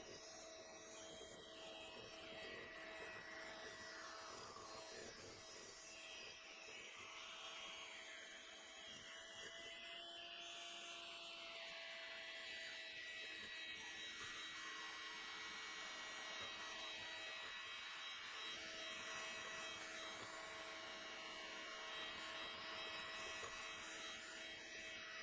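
Electric hand mixer running steadily with a faint motor whine, its pitch shifting slightly about halfway through.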